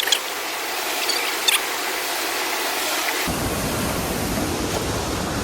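Steady rush of falling water, with a few brief clicks in the first second and a half.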